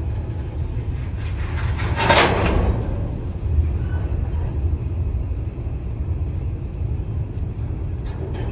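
Train running with a steady low rumble, and a short hiss about two seconds in.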